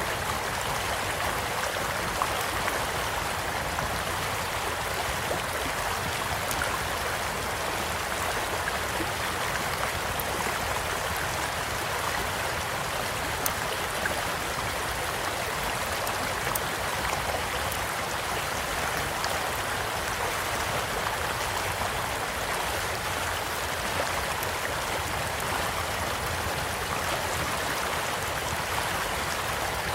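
Small stream flowing steadily, with occasional faint crackles and pops from a wood campfire burning beside it.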